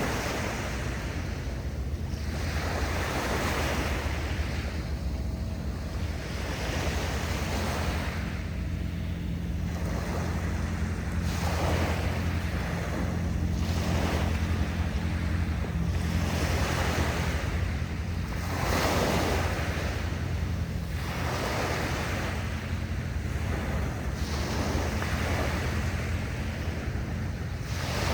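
Sea waves washing in and drawing back, swelling and ebbing every two to three seconds, with a steady low rumble of wind on the microphone underneath.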